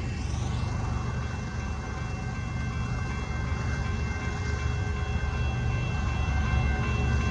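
Union Pacific coal train rolling past: a steady low rumble of the cars on the rails, with a faint, steady, high-pitched squeal over it from about a second in.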